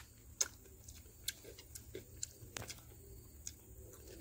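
Faint, scattered clicks and crunches of someone chewing fried chicken lollipop and handling it with the fingers, about half a dozen sharp clicks at uneven intervals.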